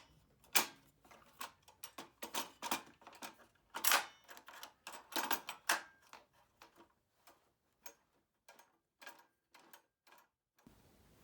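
Irregular clicks and knocks from the table saw's rip fence being moved and latched into position. They come thick for the first six seconds or so, then thin out to a few faint ticks.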